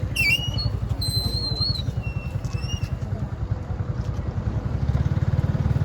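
A small engine running with a steady, fast low throb that grows louder near the end. A few short high chirps sound in the first three seconds.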